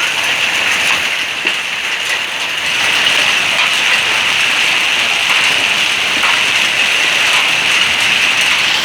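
Steady rain falling, an even hiss with scattered drop clicks.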